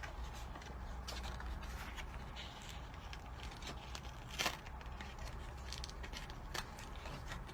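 Faint rustling and scraping of sticky glue paper being handled at the crafting table, with scattered small ticks and two sharper clicks, one in the middle and one near the end, over a steady low hum.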